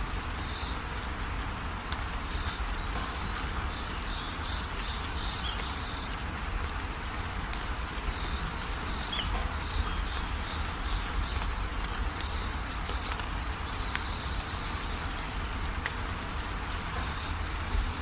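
Steady rain falling, with a bird chirping in quick repeated series of short high notes, several runs of them.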